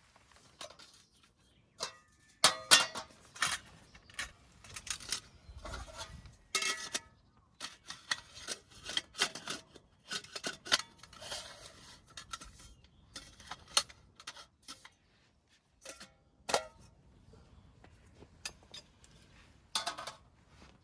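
Irregular clinks and clatter of metal items being handled, some strikes ringing briefly, with the loudest cluster about two to three seconds in.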